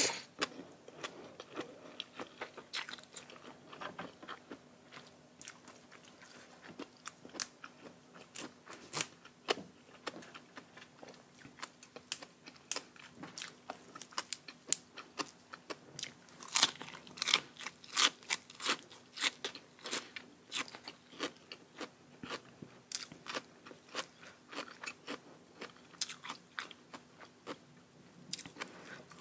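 A person chewing and crunching a spicy papaya salad with raw shrimp and crisp raw vegetables such as bitter gourd: many sharp, irregular crunches, with a run of louder ones a little past the middle.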